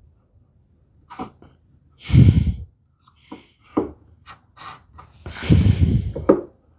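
Light clicks and knocks of a mortise gauge and wooden rail being handled and set, broken twice by loud, breathy bursts of air: once about two seconds in and again, longer, near the end.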